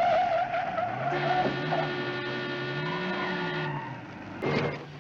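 Car tires squealing as the cab skids off, followed by a few seconds of held steady tones and a sudden loud bang about four and a half seconds in.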